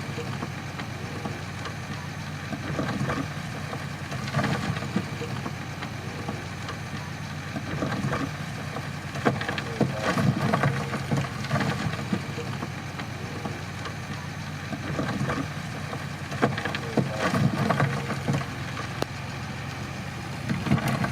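Crawler bulldozer's diesel engine running under load, its note swelling and easing every few seconds, with occasional sharp metallic clanks.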